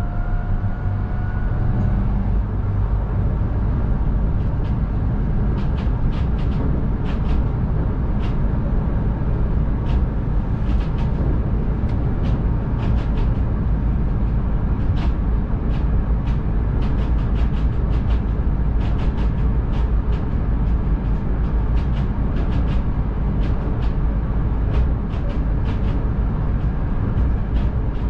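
Nankai 12000-series electric train running at speed through a tunnel, heard from the cab: a steady low rumble with frequent light sharp clicks. A rising motor whine fades out in the first two seconds.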